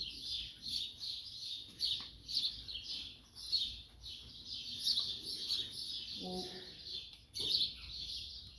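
Many small birds chirping continuously in a dense, overlapping chorus of short high chirps.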